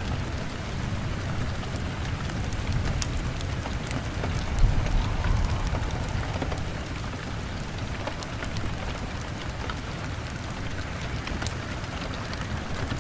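Steady rain on window glass over a crackling fire, with scattered sharp pops and a low rumble underneath. A brief louder low thump comes about four and a half seconds in.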